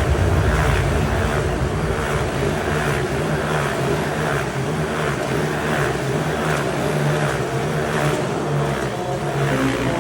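Motorcycle engines running hard inside a steel globe cage. The engine noise swells and fades in an even rhythm, about three times every two seconds, as the bikes circle the globe.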